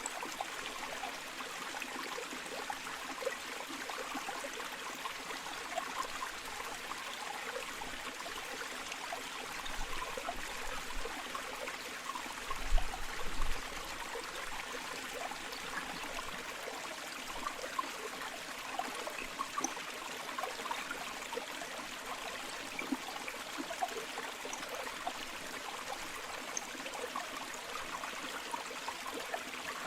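River water flowing steadily, a continuous rushing with small trickling splashes. A brief low thump comes about halfway through.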